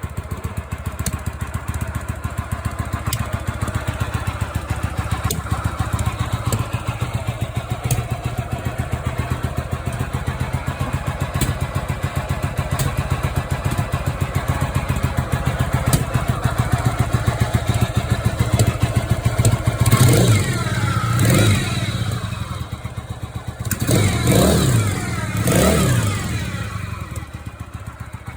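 Yamaha XS650 parallel-twin motorcycle engine idling with an irritating whirring sound whose source the owner has not found, then revved up and let back down three times near the end.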